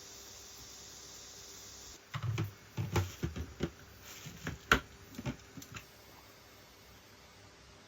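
A steady high hiss that cuts off abruptly about two seconds in, then a few seconds of irregular clicks and knocks, some with a dull low thud, the sharpest just before the five-second mark.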